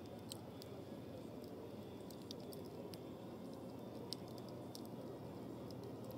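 Wood fire of pruned branches burning in a fire bowl, crackling with scattered sharp pops over a low, steady rustle of flames.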